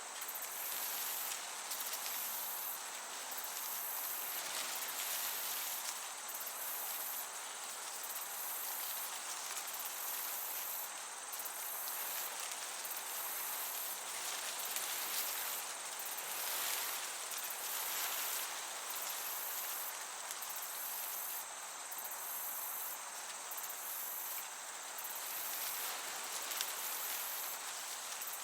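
Crickets chirping in a high, continuous trill that breaks off briefly about once a second, over a soft, even hiss of a gentle breeze.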